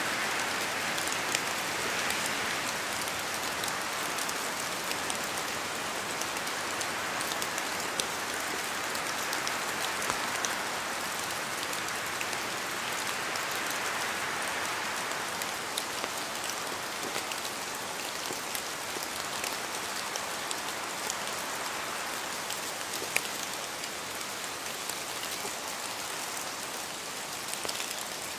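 Steady rain falling, a continuous hiss with many small drop ticks scattered through it, slowly easing a little toward the end.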